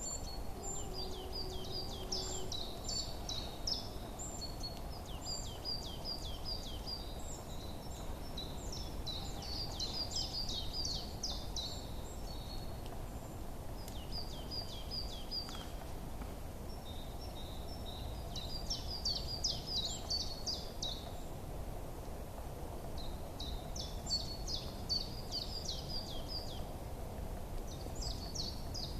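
Songbirds chirping in runs of quick, high, downward-sweeping notes, a burst every few seconds, over a steady low rumble of outdoor background noise.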